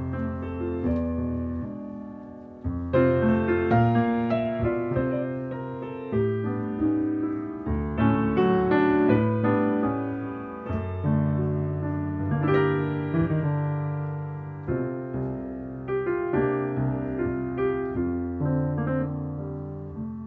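Background piano music: sustained chords with struck notes that ring and fade.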